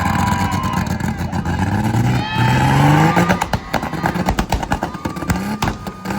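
A car engine revving loudly, its pitch climbing about two seconds in, with a run of sharp cracks and pops through the second half.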